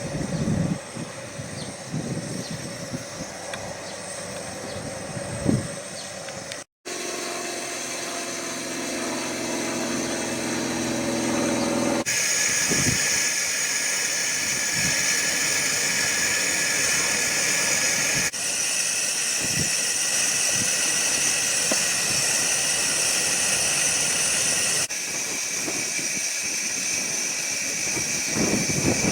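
A 15-inch-gauge steam locomotive's steam hissing steadily and loudly, in stretches that change abruptly a few times. It is preceded by several seconds of a train running with knocks, then a brief steady humming tone.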